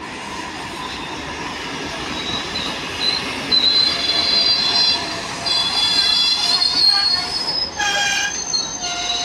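Passenger train rolling slowly alongside the platform as it slows to a stop, its wheels and brakes squealing. Several high squeals sound together and grow louder from about two seconds in, over the rumble of the coaches, with a sharper squeal near the end.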